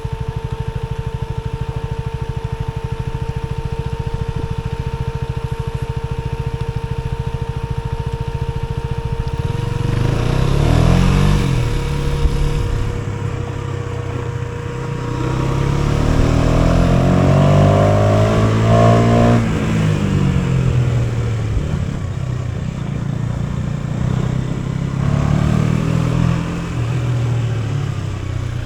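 KTM Duke 250's single-cylinder engine under way: steady running for the first several seconds, then the revs rise and fall repeatedly as the bike accelerates through the gears. A steady high whine runs under the engine through the first half and then fades out.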